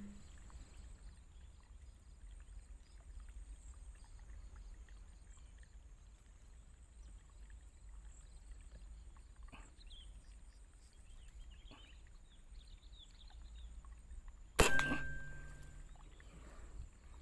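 A single sharp air-rifle shot about three-quarters of the way through, the loudest sound, dying away over about a second with a short ringing. Before it, a quiet outdoor background with a steady high thin whine and a few faint bird chirps.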